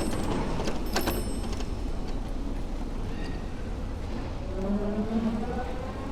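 Street noise heard from a moving bicycle: a steady low rumble of traffic and wind, a sharp metallic click about a second in, and a motor vehicle's engine tone rising near the end.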